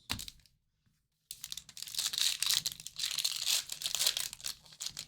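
A short knock, then about four seconds of crackling and tearing from a foil trading-card pack wrapper being ripped open and crumpled.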